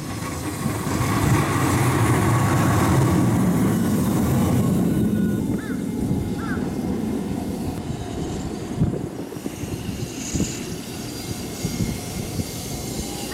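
Hiroden streetcar running past on its rails, rumbling loudest in the first few seconds and then fading somewhat.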